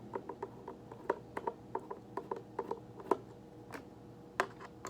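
Hands working the plastic headlight hood off a Hoover Convertible upright vacuum: a quick run of small clicks, about three or four a second, with a couple of louder knocks near the end.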